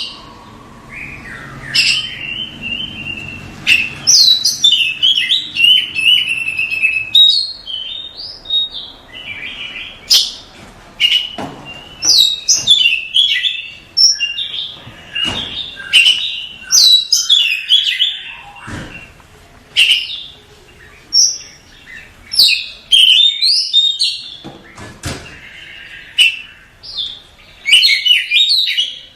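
Oriental magpie-robin (kacer) singing a dense, varied song of quick whistled and harsh notes in rapid phrases, separated by short pauses.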